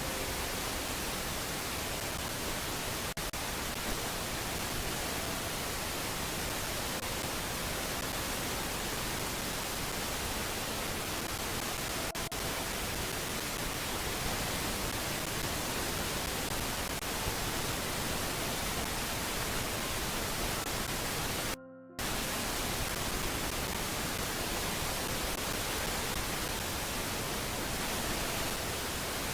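Steady hiss of static-like noise from the nest camera's audio feed, cutting out briefly about 22 seconds in.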